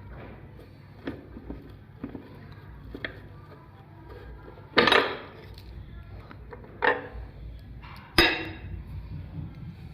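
Meat grinder working Rio cream biscuits: a steady low hum with light clicks about once a second, and three louder metallic clanks about five, seven and eight seconds in.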